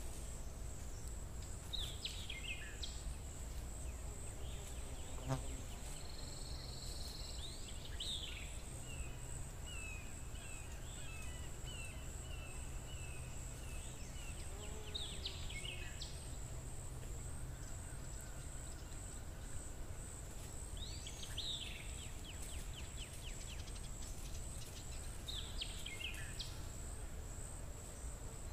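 Birds calling now and then with short falling chirps and a longer trill, over a steady, high, pulsing whine and a low background hum.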